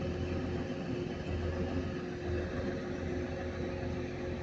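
Class 185 diesel multiple unit idling at the platform: a steady hum with a low drone and a few held tones.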